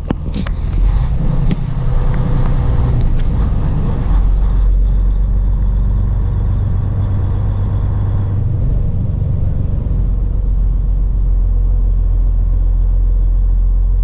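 Semi truck on the road: a steady, low engine and road rumble.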